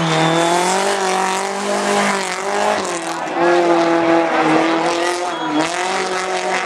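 Hillclimb race car's engine running hard at high revs, its pitch rising and falling with throttle and gear changes and dipping briefly about two seconds in and again past five seconds.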